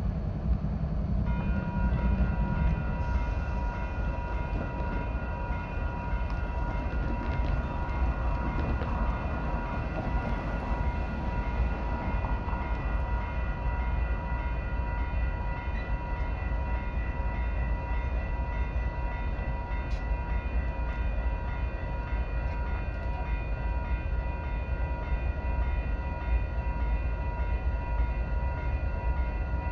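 Amtrak California Zephyr passenger train rumbling steadily past, with a constant high ringing tone held from about a second in.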